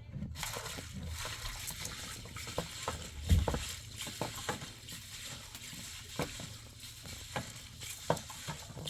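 A steady hiss with many light clicks and small knocks scattered through it, one louder knock about three and a half seconds in.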